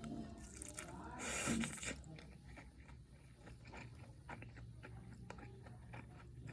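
Close-up mouth sounds of someone eating fried milk tofu: a louder noisy sound lasting under a second about a second in, then quiet chewing with many small wet clicks.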